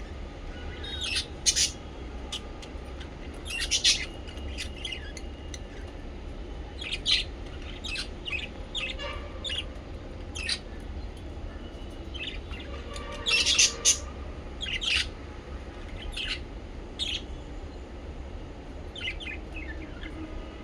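Small pet parrots chirping and squawking in short, sharp, high-pitched bursts at irregular intervals, with a few louder calls scattered through, over a steady low hum.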